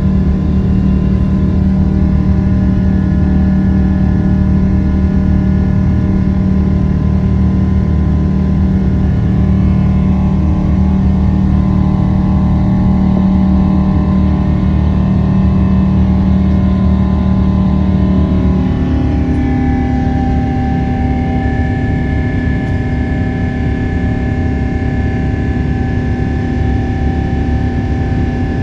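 Jet airliner's engines running at high power during takeoff and climb: a loud, steady drone with several steady whining tones. About two-thirds of the way through the tone changes, the deep hum giving way to higher steady whines, as when engine power is changed.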